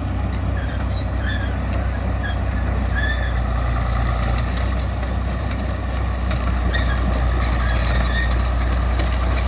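Fiat-Allis AD14B crawler bulldozer's diesel engine running steadily, with a few short high squeaks over it.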